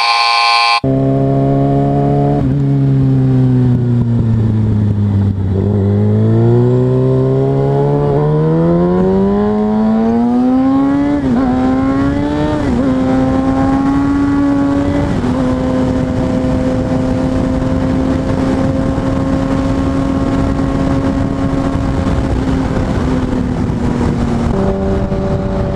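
Kawasaki Ninja ZX-6R inline-four engine under way: the note sinks as the bike slows, then climbs as it accelerates through the gears, with two quick dips at the shifts, and settles into a steady cruise, over a constant rush of wind. A short burst of noise comes in the first second.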